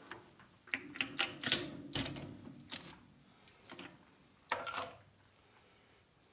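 Small metal tools or parts being handled on a workbench: a run of light metallic clicks and clinks over the first few seconds, then a louder clink about four and a half seconds in.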